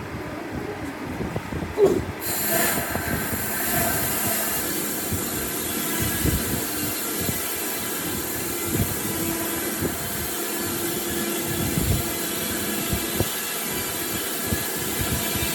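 A high-speed power tool starts up about two seconds in and runs steadily with a high whine, with scattered knocks and scraping underneath.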